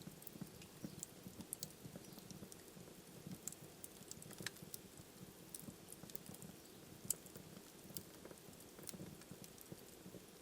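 Wood fire burning in a fireplace, quiet: a soft low flutter of flames with scattered sharp crackles and pops, the loudest pop about seven seconds in.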